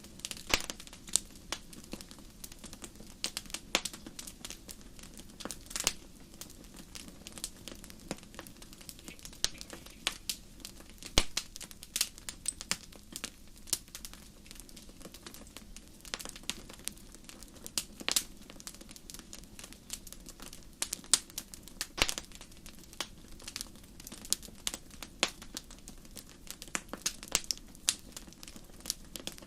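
Wood fire in a fireplace crackling: irregular sharp pops and snaps, some louder than others, over a steady low hiss of the burning.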